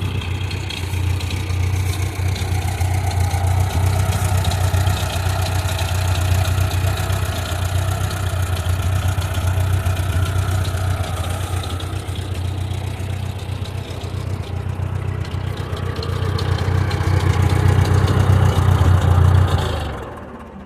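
Ford 8N tractor's four-cylinder engine idling steadily, growing a little louder in the last few seconds before the sound drops away near the end.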